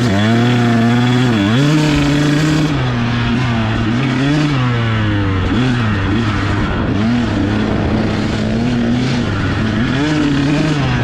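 Dirt bike engine running under riding load, its pitch dropping and climbing again several times as the throttle is closed and reopened.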